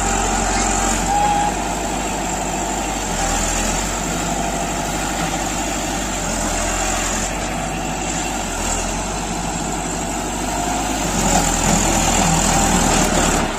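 Heavy farm machinery engine running steadily at constant speed, a little louder near the end.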